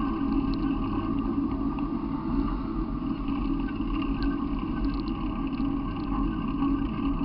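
Steady engine hum with a low rumble, as of a motor vehicle running.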